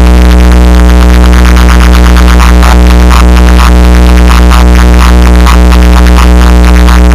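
Very loud electronic music with a heavy, sustained deep bass and a steady beat, played through a car audio system fitted in a Volkswagen Saveiro pickup, its bass 'hitting very hard'.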